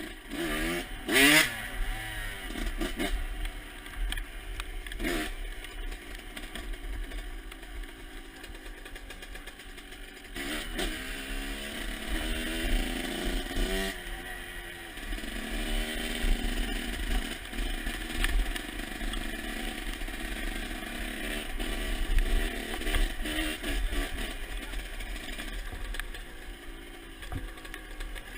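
Motocross bike engine running and revving, its pitch rising and falling again and again, with sharp revs about a second in and again between about eleven and fourteen seconds in.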